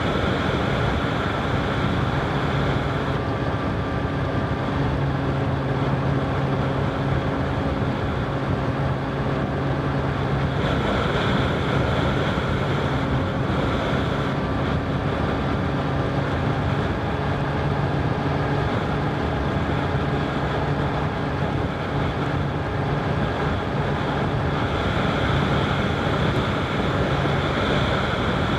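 Honda CBR1000RR SP inline-four engine running at a fairly steady speed while the motorcycle is ridden, with wind noise on the microphone. The engine hum holds steady, with the brighter upper part of the sound rising twice for a few seconds.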